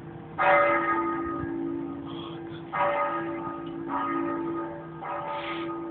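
Church bells tolling: four strikes, the first the loudest, each ringing on and fading over a steady hum.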